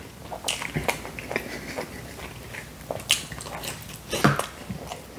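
Close-up eating sounds: biting into and chewing a slice of Domino's Hawaiian pizza, with irregular wet mouth clicks and smacks and one louder bite about four seconds in.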